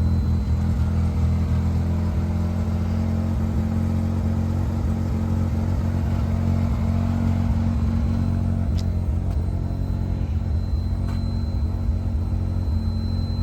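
1984 Mazda RX-7's rotary engine idling steadily through its exhaust, still warming up after a cold start.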